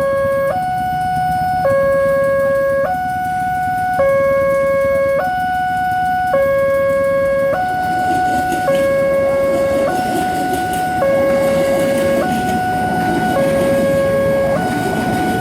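Railway level-crossing warning alarm sounding, alternating steadily between a lower and a higher tone about every second and a quarter. From about eight seconds in, a rumbling noise grows underneath it.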